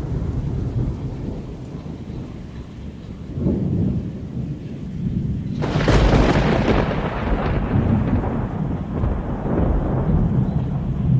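Thunder: a low rumble, then a sharp crack a little before halfway that rolls on into a long, slowly fading rumble.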